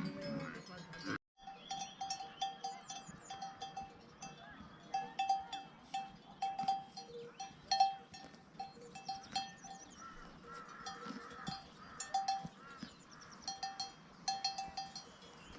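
Small bells worn by grazing livestock clinking irregularly and continually, many light strikes at a steady ringing pitch. There is a brief dropout a little over a second in.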